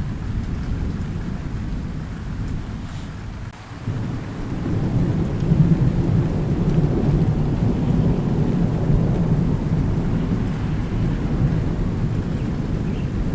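Thunderstorm: steady rain under a deep rolling thunder rumble that fades briefly, then swells up again about four seconds in and keeps rumbling loudly.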